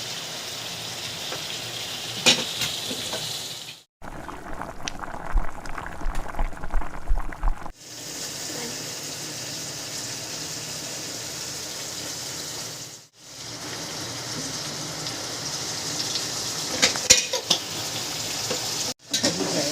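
Chicken stew sizzling in a cooking pot while a spoon stirs it, with occasional clinks of the spoon against the pot. The steady sizzle is interrupted by several abrupt cuts.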